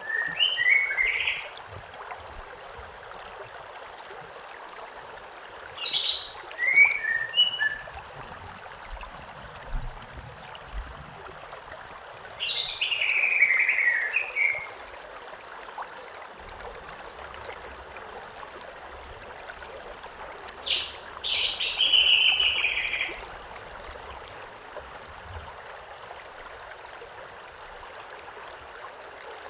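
Songbird chirping in short phrases that fall in pitch, four times a few seconds apart, over the steady rush of a flowing river.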